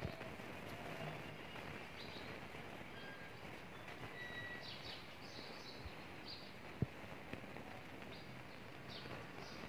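Outdoor background ambience, a steady hiss with short, faint bird chirps scattered throughout and one sharp click about seven seconds in.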